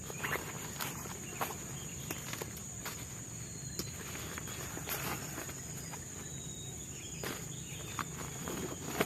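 Forest insects buzzing in one steady high tone, with irregular snaps and knocks close by, a dozen or so over the few seconds.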